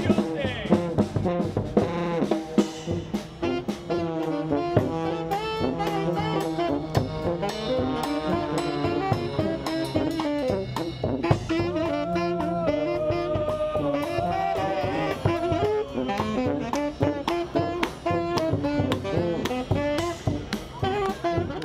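Marine Corps band playing a jazz tune live, horns carrying the melody over a drum kit beat.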